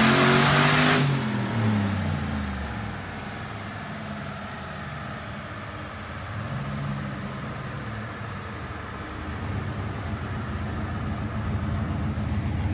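Turbocharged OBS Ford pickup engine on a chassis dyno coming off a full-throttle pull. The revs fall away over the first couple of seconds, and a loud rush of noise cuts off about a second in. It then settles into a low, steady idle that grows slightly louder near the end.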